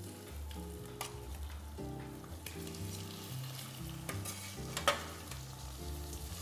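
Black tiger prawns sizzling as they go into a hot stainless steel pan to sear, with a metal utensil clicking against the pan a few times.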